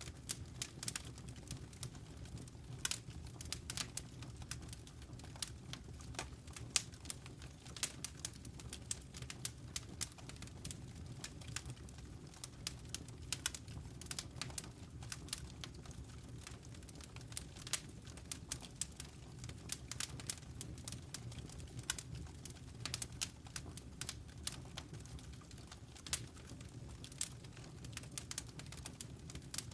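Wood fire in a fireplace crackling: many irregular sharp snaps, some louder than others, over a steady low sound of the burning fire.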